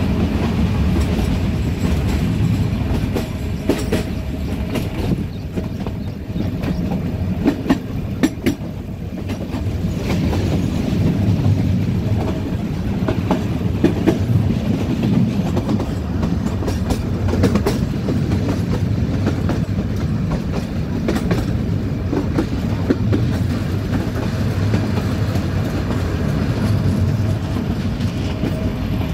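Nilgiri Mountain Railway metre-gauge train running, heard from inside the coach at an open window: a steady low rumble of wheels on rails, with sharp clicks here and there.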